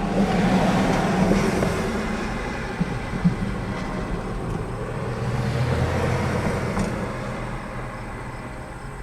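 Loaded freight cars of a potash train rolling past on the rails: a steady rumble with occasional sharp wheel clicks, easing off toward the end.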